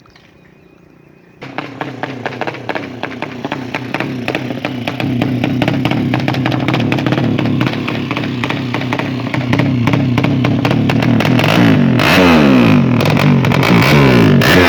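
A 200cc drag bike engine fires up suddenly about a second and a half in and runs with a rapid, loud firing beat. Near the end it is revved up and down repeatedly.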